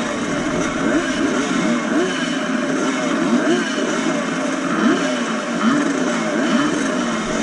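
Several vintage 125cc two-stroke motocross bikes racing, their engine notes repeatedly climbing and dropping as the riders work the throttle and shift gears.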